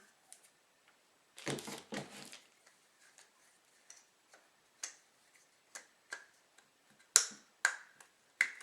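Scattered sharp clicks and light taps of the small parts of a Bostitch N88 framing nailer's cap and main valve being handled while its O-rings are worked on, with a brief rustle about a second and a half in; the clicks come louder and closer together near the end.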